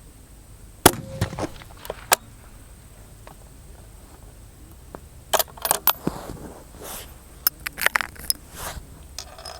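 A sharp knock about a second in, then scattered metallic clicks and rattles in two clusters, from about five to six seconds and again from about seven and a half to nine seconds in.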